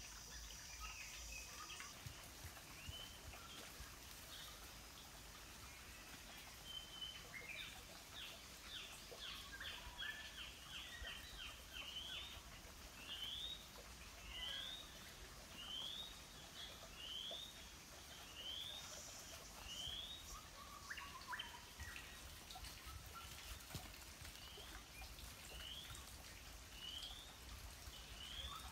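Faint birdsong: a cluster of chirps, then a short rising note repeated about once a second, over faint outdoor ambience.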